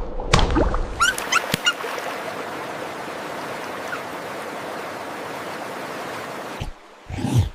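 An animal's short rising squeaks and calls in the first second and a half, over a steady hiss that carries on alone for several seconds. Near the end the sound changes abruptly to a series of short animal calls.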